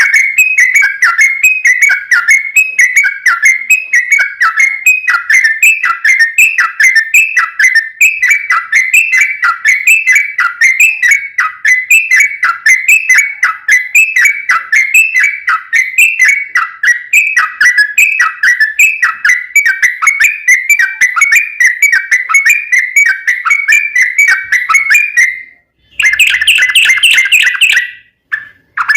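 Yellow-vented bulbul (trucukan) singing a long, fast, unbroken run of bubbling notes, two or three phrases a second around one pitch. It breaks off near the end, gives a short louder burst, pauses briefly and starts again.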